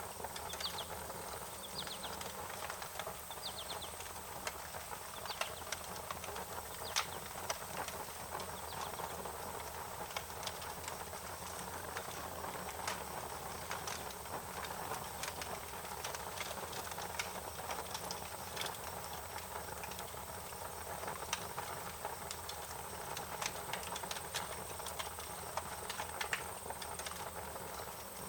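Wood fire crackling, with irregular sharp pops and snaps over a steady hiss. A few short high chirps sound in the first few seconds.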